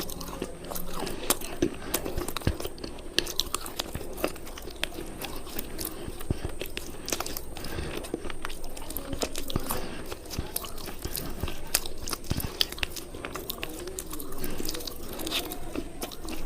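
Brittle cubes being bitten and chewed close to the microphone: dense, irregular sharp crunches and cracks, several a second.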